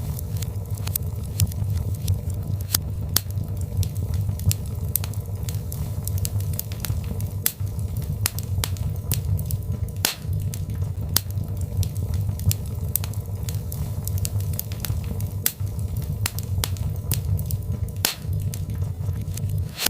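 Birchwood fire crackling in a fireplace: frequent sharp pops and snaps, several a second, over a steady low rumble of the burning fire.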